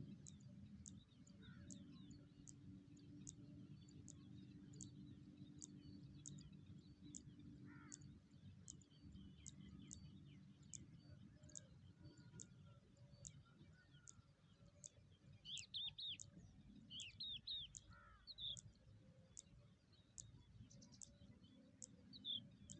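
Faint bird chirps at a nest, a short cluster of high chirps a little past the middle and one more near the end, over a low steady background rumble. A faint high tick repeats about one and a half times a second throughout.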